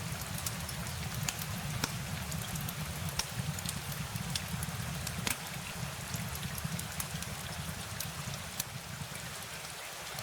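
Steady rain falling, a continuous hiss with many individual drops ticking sharply at irregular moments, over a low steady rumble.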